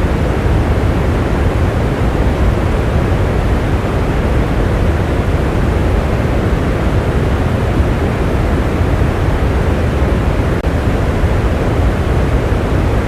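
Steady heavy rain: an even, unbroken rushing noise with a deep low rumble, no single drops, thunder or other events standing out.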